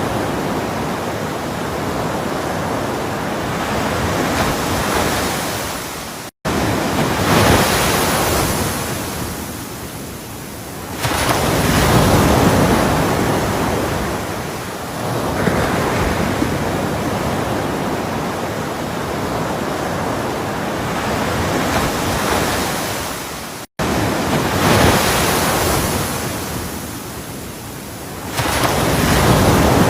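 Ocean waves breaking and washing up the shore, a continuous surf roar that swells and ebbs every few seconds. The sound cuts out for an instant twice, about six seconds in and near the last quarter.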